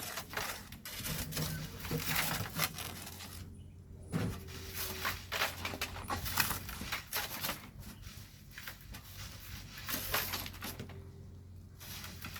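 Shovels scraping and digging into loose volcanic sand and gravel in quick, irregular strokes, over a faint steady low hum.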